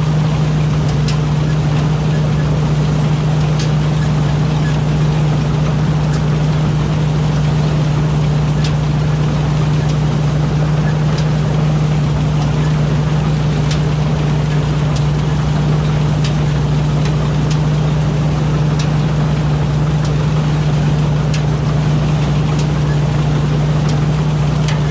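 Rice combine harvester's engine running steadily under load, a constant low drone, with a faint tick every two to three seconds.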